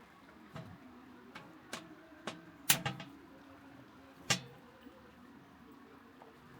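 A string of sharp clicks and knocks at uneven intervals, the loudest two close together a little past halfway and another about four seconds in.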